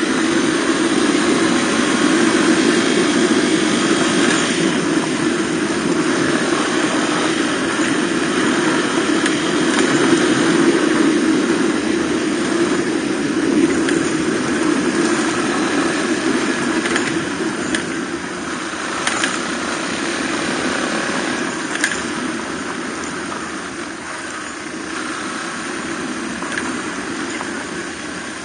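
Suzuki DR250R motorcycle's single-cylinder four-stroke engine running steadily under way, with a few short sharp knocks; it eases off somewhat after about eighteen seconds.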